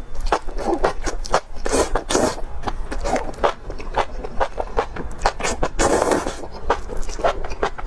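Close-miked chewing and lip smacking while eating meat: a rapid, irregular run of wet clicks and smacks, with a longer noisy burst about six seconds in.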